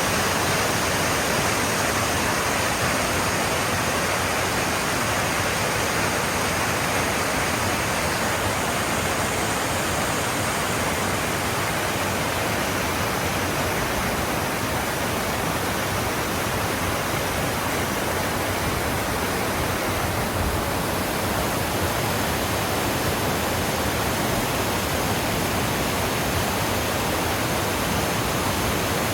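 Creek waterfall: a steady, unbroken rush of falling water.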